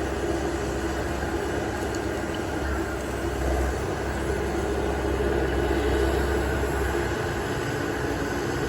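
Heavy diesel engines running steadily as an excavator works loading a dump truck, a continuous low rumble that swells slightly midway.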